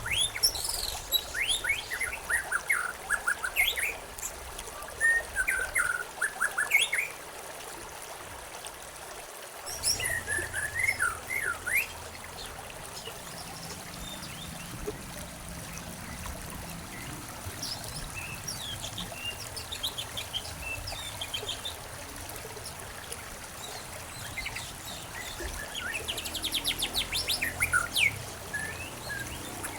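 Songbirds chirping and calling in short bursts and quick trills over a steady trickle of flowing water. The calls come in clusters: a busy run in the first seven seconds, another around ten to twelve seconds, and a fast trill near the end.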